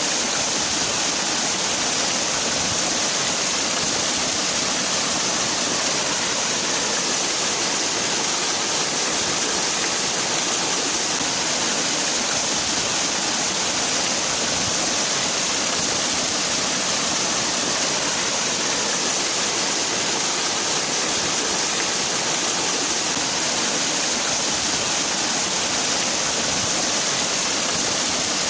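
Waterfall: water falling and splashing in a steady, unbroken rush, with a bright hiss.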